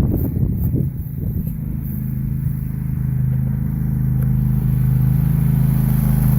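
A ride-on lawn tractor's engine runs steadily, growing slightly louder, with some clattering in the first second.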